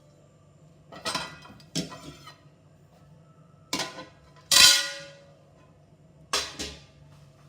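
Rolling pin knocking and rolling on a pastry board as pie-crust dough is rolled out. There are five separate clattering strokes; the loudest, about halfway through, rings briefly.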